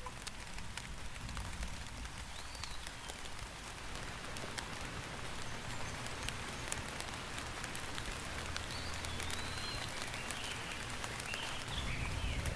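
Steady rain falling, with many individual drops ticking. A few short chirps come in about two seconds in and again near the end, and a low rumble grows toward the end.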